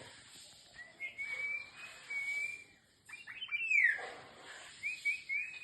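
Golden oriole singing: a long fluty, wavering whistle, then a quick run of notes ending in a falling slur, then a few short looping whistles near the end.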